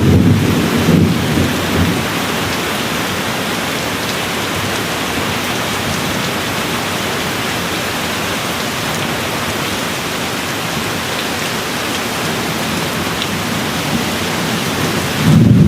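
Steady rain falling, with thunder. A low rumble dies away in the first second or two, leaving an even patter of rain. Near the end a new, louder rumble of thunder breaks in suddenly.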